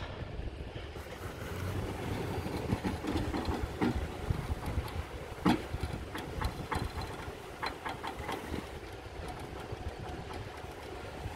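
Vehicle engine running steadily while a car stuck in a snow washout is being pulled out, with a few sharp knocks and clicks over it, the loudest about five and a half seconds in.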